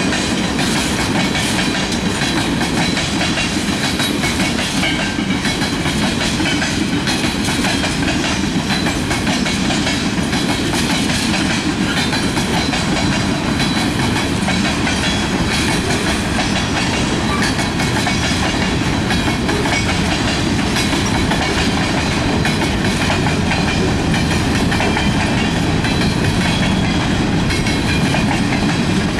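Freight cars of a manifest train rolling past: a steady loud rolling noise of steel wheels on rail, with many small clicks as the wheels pass over rail joints.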